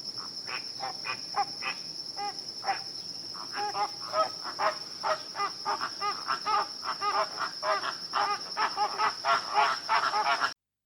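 Short animal calls repeating, coming faster and louder from about four seconds in, over a steady high-pitched insect chirring; everything cuts off abruptly just before the end.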